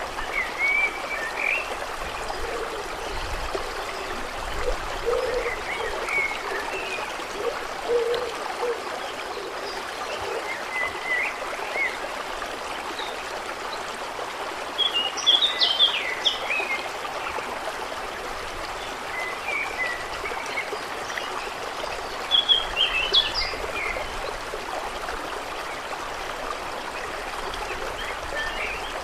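Steady flow of water with scattered short, high chirping calls from small animals, coming in quick clusters about halfway through and again a little later.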